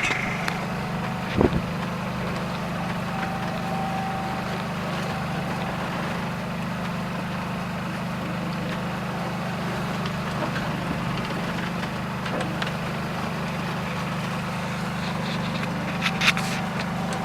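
A sailboat's inboard engine running steadily with a low, even hum. A single knock sounds about a second and a half in, and a brief clatter near the end.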